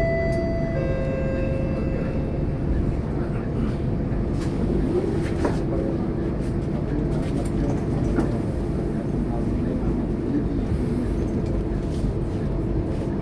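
Steady low drone of a Scania K230UB city bus's five-cylinder diesel engine and road noise, heard from inside the cabin while under way. At the very start a two-note electronic chime sounds, a higher tone and then a lower one that lasts about two seconds.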